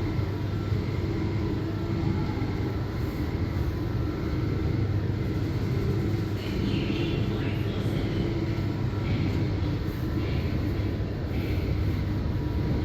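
Steady low mechanical hum of laundromat washers and dryers running, with a strong even drone and a little faint rattling about halfway through.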